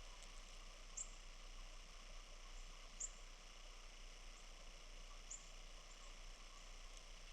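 Faint bird chirps: short, very high single peeps about every two seconds over a quiet steady hiss.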